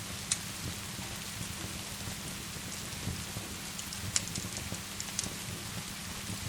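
Steady rain hiss over a low rumble, with sharp pops and crackles of a wood fire scattered through it, about four loud ones.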